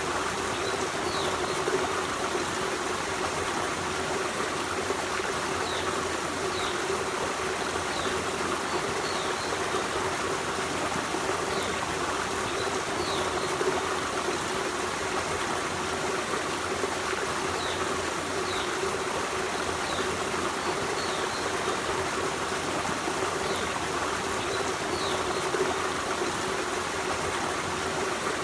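Forest stream running and trickling over rocks, a steady rushing wash. Short, faint high chirps come every second or two above the water.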